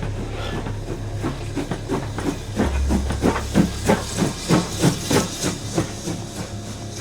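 Steam locomotive working, its exhaust chuffing about four times a second over a steady hiss of steam. The beats grow louder to a peak a few seconds in, then fade.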